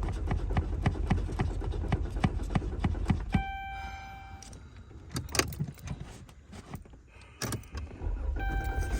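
Car engine cranking over on the starter without catching, a rhythmic chug of about four beats a second, with a steady electronic warning tone sounding alongside. The cranking stops about a third of the way in, and a few clicks and knocks follow. It starts cranking again near the end.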